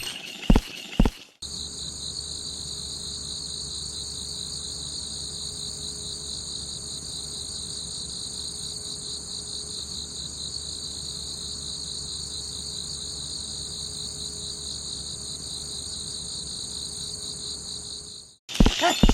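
A few sharp knocks, then steady, high-pitched insect chirring that starts abruptly about a second and a half in and cuts off suddenly just before the end.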